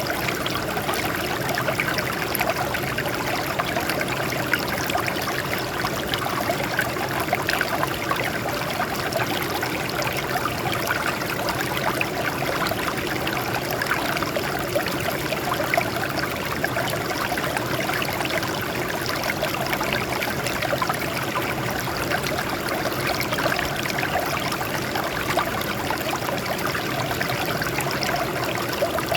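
Water flowing and trickling over rocks, a steady babbling stream.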